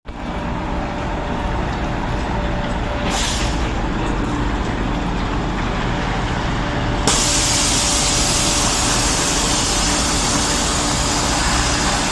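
Volvo D13 truck diesel engine running steadily. A short hiss of air comes about three seconds in, and a loud, steady hiss of air starts suddenly about seven seconds in and keeps going.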